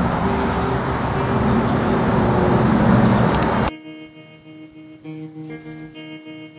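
A loud, steady rushing noise that cuts off abruptly a little over halfway through. Quiet acoustic guitar music follows, with plucked notes left to ring.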